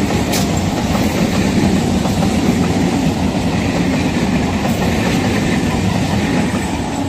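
Electric multiple unit local train running past close by: a loud, steady rumble of coach wheels on the track, with an occasional sharp click.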